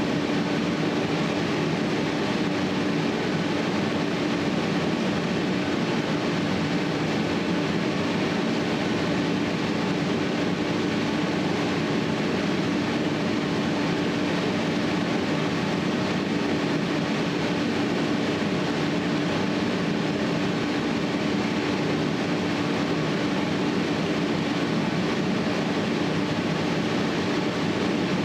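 Steady, unbroken mechanical noise with a constant low hum that neither starts, stops nor changes.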